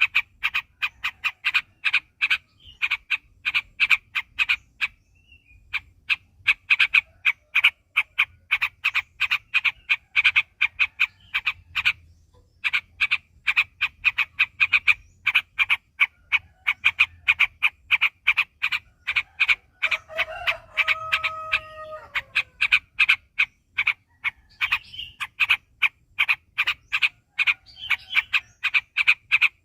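Yellow-vented bulbul (trucuk) chattering in a long, fast run of short, sharp notes repeated several times a second, broken by two brief pauses. About two-thirds of the way through, a longer, lower drawn-out call sounds under the chatter for about two seconds and falls away at its end.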